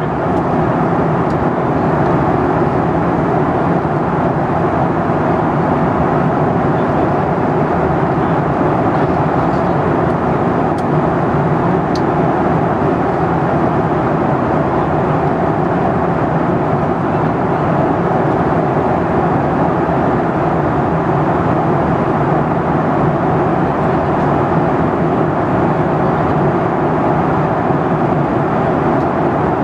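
Steady cabin noise inside a Boeing 737-8 MAX in flight on its arrival: its CFM LEAP-1B engines and the airflow over the fuselage, an even, unchanging rush.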